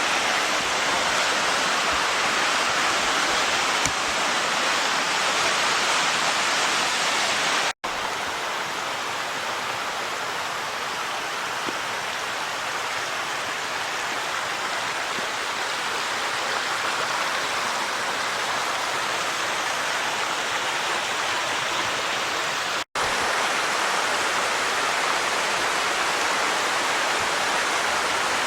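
Steady rush of a creek running over small waterfalls and cascades. It cuts out for an instant twice, about 8 and 23 seconds in.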